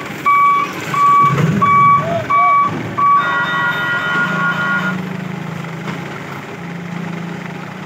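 Truck reversing alarm beeping at a steady rhythm, a little under two beeps a second, then stopping about three seconds in. A brief steadier multi-tone sound follows, and the truck's engine keeps running with a low hum.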